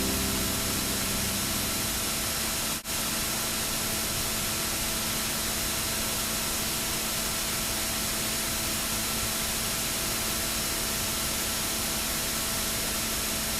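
Steady, even hiss like static, with a brief drop-out about three seconds in.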